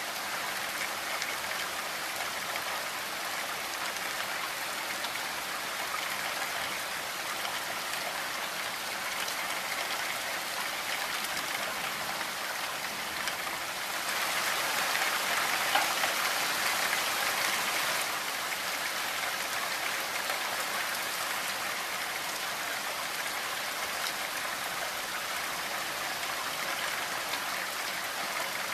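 Steady rain pattering on a window and roof, a dense even hiss that swells a little louder for a few seconds about halfway through.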